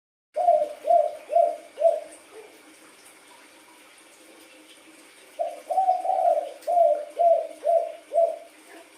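Spotted dove cooing: a quick run of four coos, then, after a pause of about three seconds, a longer run of about seven.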